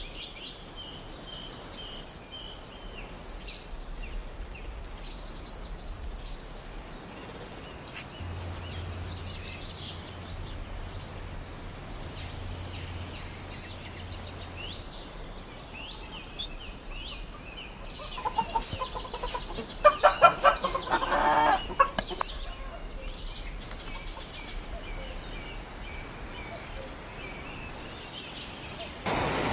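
Small birds chirping, with a loud run of rapid pulsed calls from farm poultry about 18 seconds in, lasting some four seconds.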